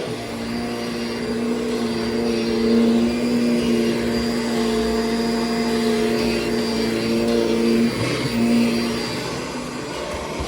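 Kirby G5 upright vacuum cleaner running over a rug, its motor giving a steady hum, with its nozzle lowered five clicks to make contact with the pile. The tone breaks and wavers briefly near the end.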